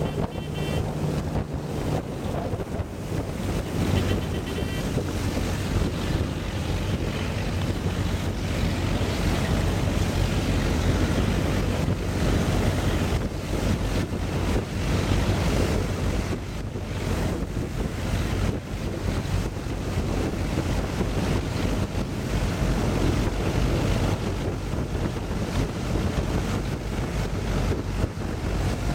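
Steady rushing wind and water noise with wind buffeting the microphone, and a faint low hum underneath.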